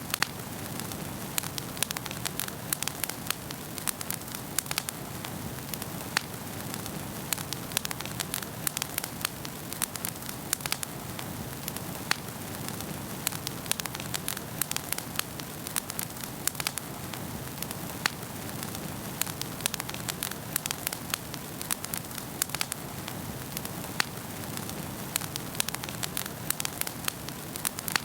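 Wood fire burning in a fireplace, crackling and popping with many sharp irregular snaps over a steady low rush of flames.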